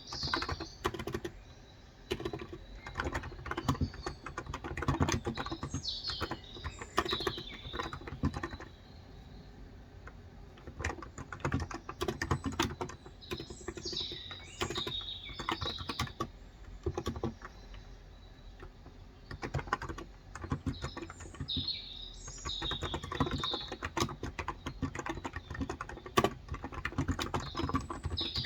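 Typing on a COX Endeavor electrostatic capacitive (Topre-style) tenkeyless keyboard with light 35 g keys, in runs of keystrokes broken by short pauses. Birds chirp in short phrases every few seconds in the background.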